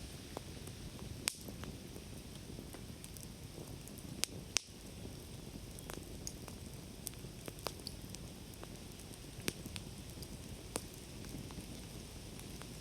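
Wood campfire burning, a steady low hiss with irregular sharp crackles and pops, the loudest a little past one second and about four and a half seconds in.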